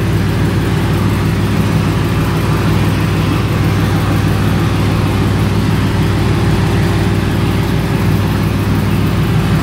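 A car engine idling steadily, with an even low rumble and no revving.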